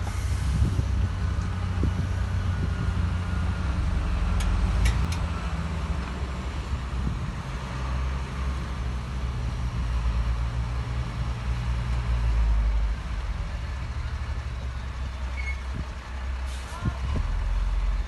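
Heavy diesel earthmoving machinery running with a steady deep engine rumble that rises and falls, and a few short sharp clicks.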